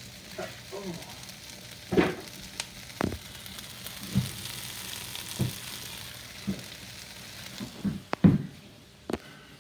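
Onions frying and sizzling in a pan, with a cooking utensil knocking against the pan several times at irregular intervals as they are stirred. The sizzle dies down near the end.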